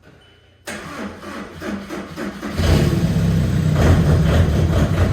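Volkswagen car engine turned over by the starter for about two seconds, then catching and settling into a steady idle.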